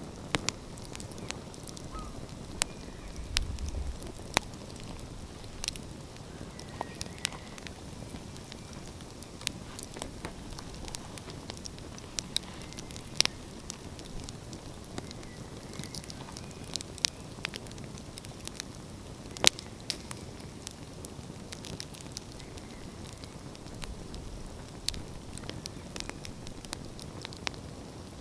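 Campfire burning, its wood crackling and popping in irregular sharp snaps over a steady low rushing hiss.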